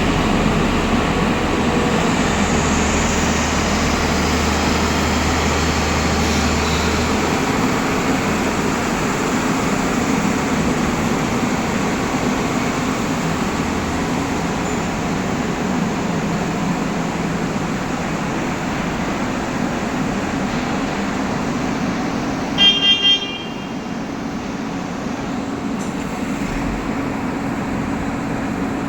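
Excavator's diesel engine running steadily under load, with three short horn toots in quick succession about three quarters of the way through.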